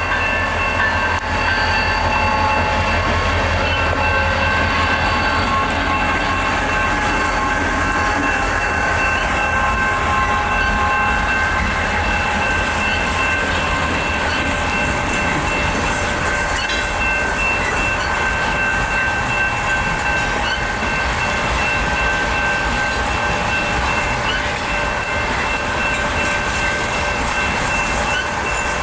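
A freight train rolling through a grade crossing: a steady low rumble and clatter of wheels on rail joints. Over it, the crossing's electronic E-bells ring continuously as ringing tones that hold steady throughout.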